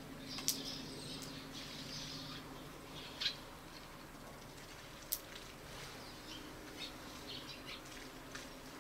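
Small wild birds at a bird feeder giving short, scattered chirps, with a few sharp taps.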